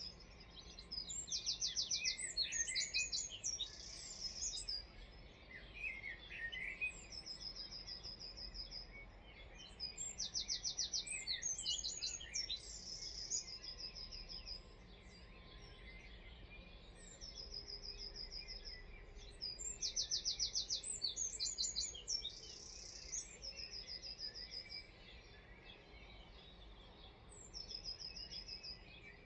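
A songbird singing the same high song over and over, about every nine to ten seconds: each song is a run of quick, even notes followed by a faster, buzzier rattle. Another bird adds lower chirps now and then in the first several seconds, over a steady outdoor hiss.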